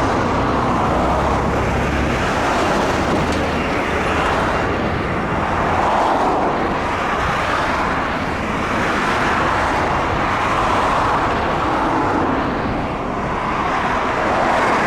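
Steady jet engine noise from a Boeing 747-400 freighter landing, swelling and easing a few times.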